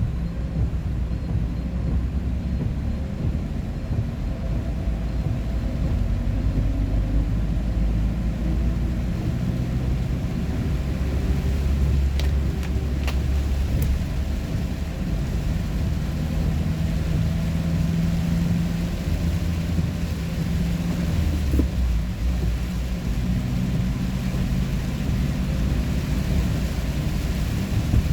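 Motor vehicle on the road: a steady low engine and road rumble, with a few brief clicks around the middle.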